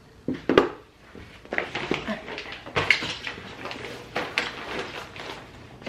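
Lunch packing at a kitchen counter: a run of sharp clicks and short rustles as food containers and bags are handled, a couple of loud clacks near the start.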